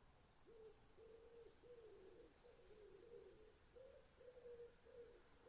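Faint nature ambience: a bird's short, low hooting calls, each falling slightly in pitch and repeated nearly twice a second, over an insect's steady high chirping.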